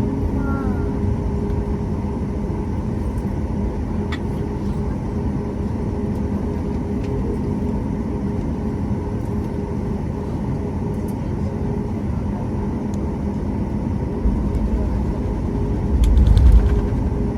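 Airliner cabin noise: a steady jet engine hum with a low rumble, growing briefly louder with a faint rattle near the end.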